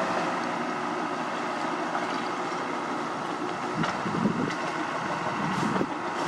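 Heavy road-paving machinery running steadily: a continuous diesel engine drone, with a couple of short knocks about four seconds in.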